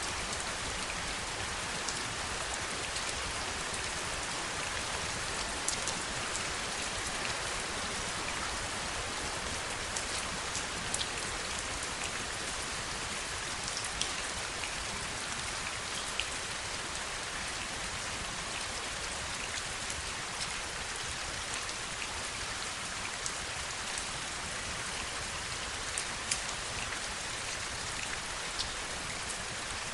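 Steady heavy rain, an even hiss with scattered louder individual drops landing close by.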